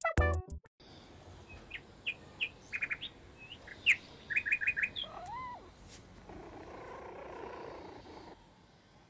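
A music track ends in the first second. Then small birds chirp in short series of high notes, with one rising-and-falling call about five seconds in, followed by a soft rush of noise for about two seconds.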